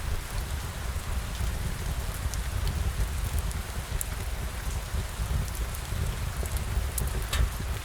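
Steady rain falling, with a deep rumble underneath and scattered sharp ticks of drops; one louder tick near the end.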